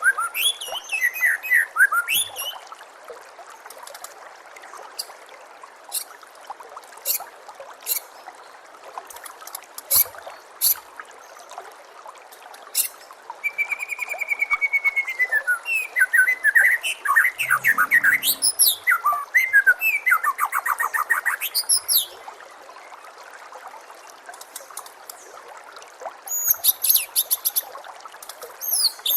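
White-rumped shama singing in bursts of varied phrases: sharp high clicks, whistled notes and fast trills, with pauses between. Under the song runs a steady trickle of water.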